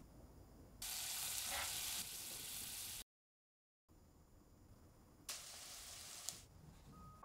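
Egg-soaked bread slices sizzling as they fry in butter in a frying pan. The sizzle comes in two spells, about two seconds long starting about a second in and about a second long near the end, with a moment of dead silence between them.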